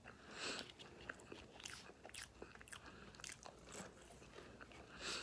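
A person chewing and biting fast food close to the microphone: faint, irregular crunchy bites and wet mouth clicks.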